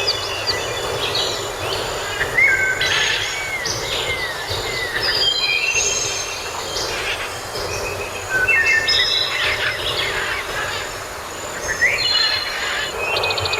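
Several birds calling and singing over a steady background hiss: short whistled notes, a pair of arching notes a couple of seconds in, a sharp rising note about halfway, and a fast trill near the end.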